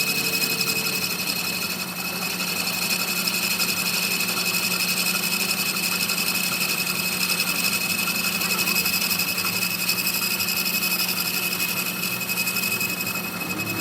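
A workshop machine running steadily, with a constant high whine over a low hum.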